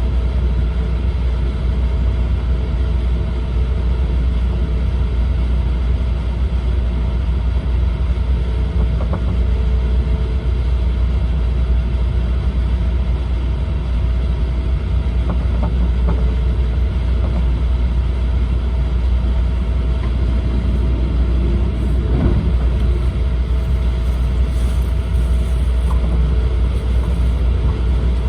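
Cabin noise of an E4 Series double-decker Shinkansen under way: a steady low rumble with a faint steady hum, and a few faint clicks.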